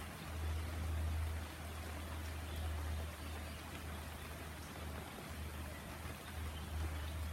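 Rain falling steadily, an even hiss, under a low rumble that swells and dips every second or so.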